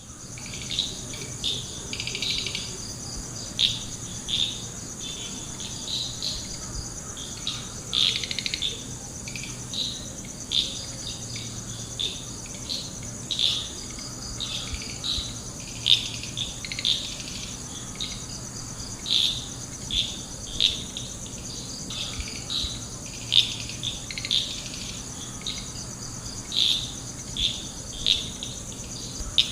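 Lovebirds giving short, sharp calls, one every second or so, as a civet attacks them. Behind the calls runs a steady, high insect drone.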